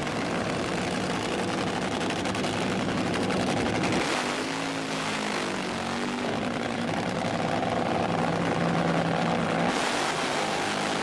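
Running O.S. Max FS-52S single-cylinder four-stroke glow engine, an RC-plane motor back in use after sitting 16 years. Its speed shifts about four seconds in and again near the end.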